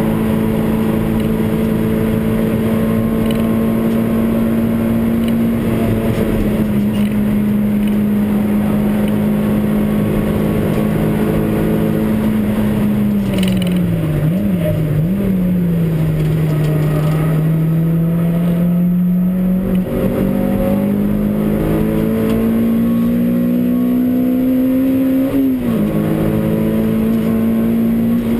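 Honda Civic Type R (EP3) four-cylinder engine at high revs under load, heard from inside the cabin, over constant road and wind rush. About halfway through the revs fall and waver around a gear change and stay lower for a few seconds. They then step up and climb again, with a quick drop near the end.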